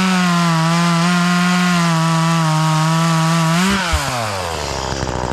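Gas chainsaw running at high revs as it cuts through wood with a freshly sharpened chain, which cuts fast and straight. About three and a half seconds in the throttle is released, there is a knock, and the revs fall away toward idle.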